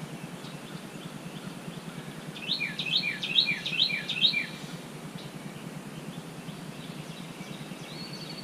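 A songbird sings a quick run of about seven falling high notes a few seconds in, and a thin, high held note sounds near the end, over steady low background noise.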